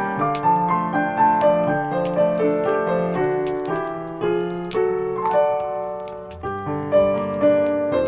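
Background piano music: a melody of single notes over sustained chords.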